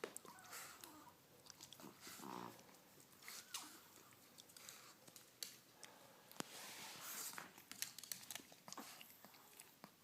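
Pet dogs moving about close by, faint clicks and scuffling throughout, with a short whine about two seconds in.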